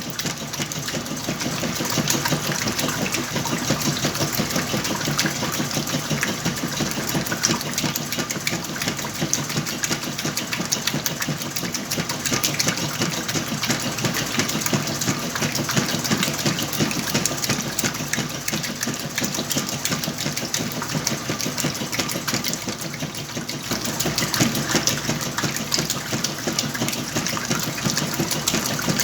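Whirlpool washing machine running with a load of blankets: a steady mechanical noise with a fast, even rattle. It dips slightly in level about three-quarters of the way through.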